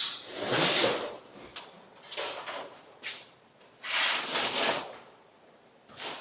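Scraping and sliding noises of objects being shifted about during garage clean-up. They come as several uneven bursts, the loudest right at the start and again about four seconds in.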